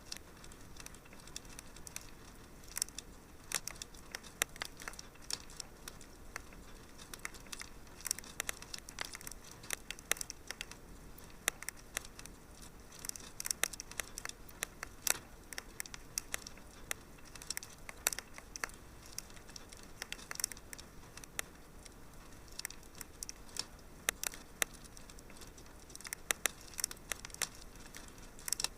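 Wood fire crackling in a fireplace: many small, irregular pops and snaps over a soft steady hiss.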